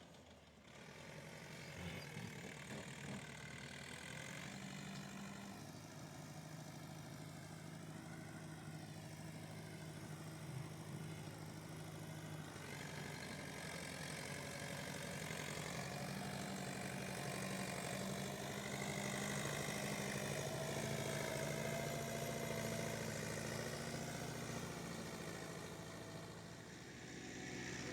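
Tractor engine running steadily, growing a little louder past the middle and easing off near the end.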